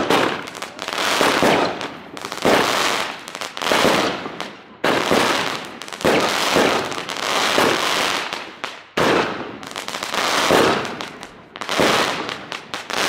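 Nico Feuerwerk 'Popping Flowers' 13-shot firework battery firing shot after shot, about one every second and a half. Each shot is a sudden bang that trails off over about a second, and the last one dies away near the end.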